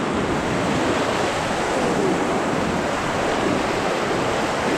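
Steady rushing of a whitewater river as the raft runs the rapids.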